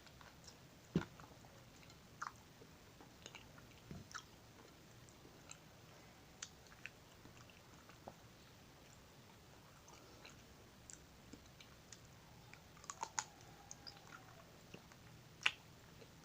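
Close-up chewing and biting into an ice cream bar on a stick: irregular small crunches and wet mouth clicks, with a sharper bite about a second in and another near the end.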